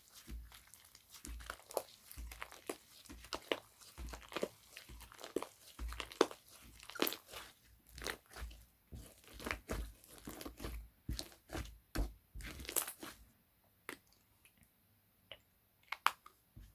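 Slime being squeezed and worked by hand, giving off many crackling clicks and pops. The clicks come thick and fast until about 13 seconds in, then only a few scattered ones remain.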